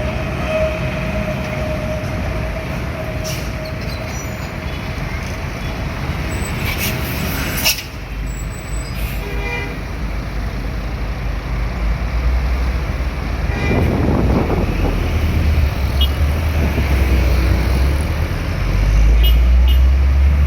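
Heavy road traffic, trucks driving past with a deep engine rumble. A steady held tone runs through the first third and stops suddenly about eight seconds in, and the rumble swells as a heavy vehicle passes close near the end.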